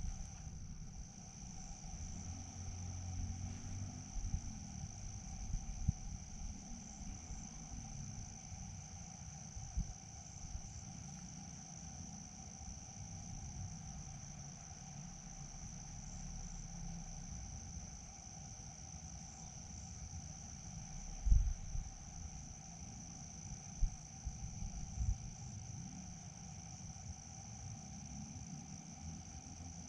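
Crickets chirping in a steady, unbroken high-pitched drone, with a low rumble underneath and a few dull thumps, the loudest about two-thirds of the way through.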